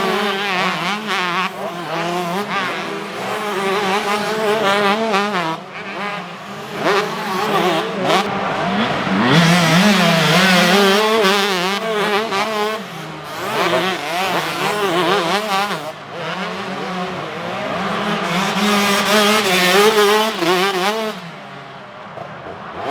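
Several 125cc motocross bikes racing on the track, their engines revving hard up and down through the gears, several at once. They swell and fade as the riders pass, and grow quieter near the end.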